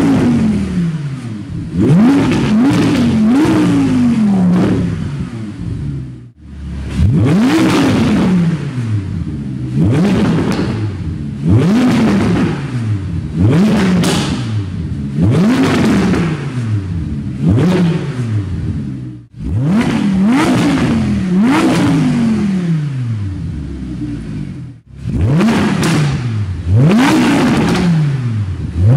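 The Audi R8 V10 Plus's naturally aspirated 5.2-litre V10 is free-revved over and over while standing. Each blip rises sharply in pitch and falls back, about one every second or so, with a few brief breaks. The earlier revs are through the original exhaust; the later ones are through the same exhaust with the catalytic converters removed (catless, decatted).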